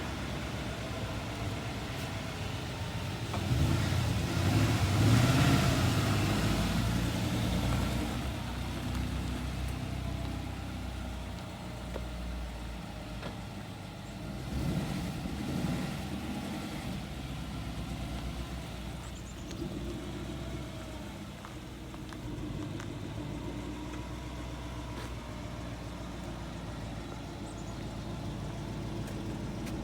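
Car engine on its stock exhaust running after a cold start, steady at idle, with a rise in engine speed about four seconds in that lasts a few seconds and a smaller one around fifteen seconds in.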